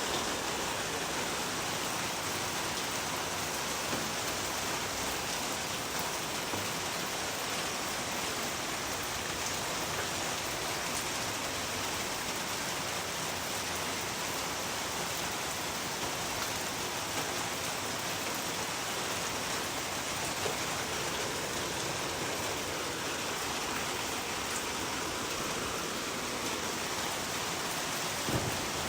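Steady rain falling on a surface, an even hiss with a few faint individual drop ticks.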